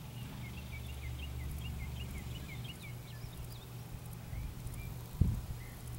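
A bird singing a rapid run of short chirps that thins out after about three and a half seconds, over a steady low rumble. A single dull thump about five seconds in.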